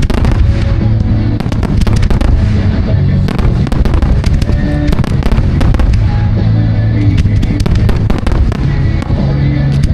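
Fireworks going off in a dense barrage, many bangs and crackles in quick succession, with music playing alongside.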